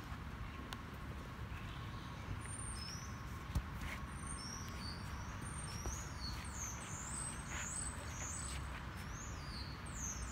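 A songbird singing a run of high, sweeping whistled notes, starting about two seconds in, over a steady low background rumble. A single short thump about three and a half seconds in is the loudest moment.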